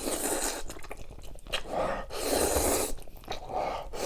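Close-miked eating sounds: chewing and crunching in three bursts, with small clicks between them.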